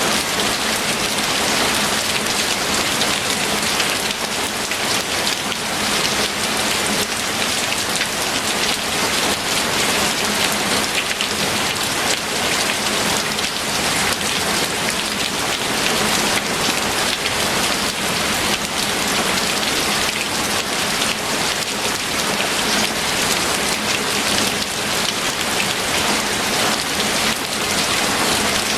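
Steady heavy rain falling on a surface, a dense even patter without a break.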